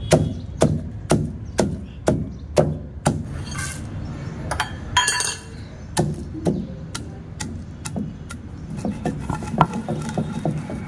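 Pestle pounding peanuts, dry red chillies and cucumber into roti pachadi in a mortar: hard knocks about twice a second at first, then lighter, quicker taps.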